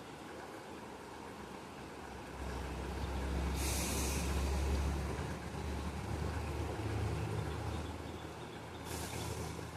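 Low rumble of a passing vehicle's engine, swelling and then easing, with two short bursts of hiss, one during the loudest part and one near the end.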